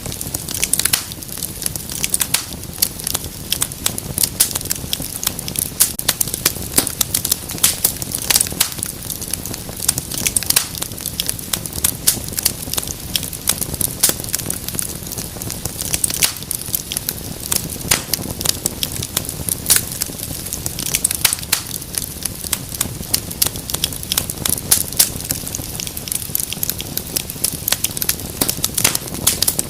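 Wood fire crackling in a fireplace: dense, irregular sharp pops and snaps over a steady soft hiss.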